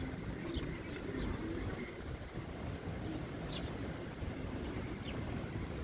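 A few short, faint chirps from sparrows, about three in all, over a steady low rumble of background noise.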